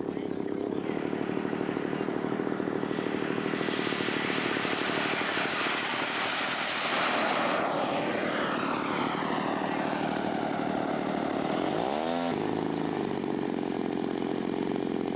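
Engine of a radio-controlled scale model airplane flying past, its steady note loudest about halfway through, then sweeping downward as the plane goes by.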